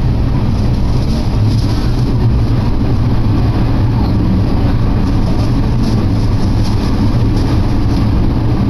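Steady low rumble of a moving diesel railcar, heard from inside the carriage.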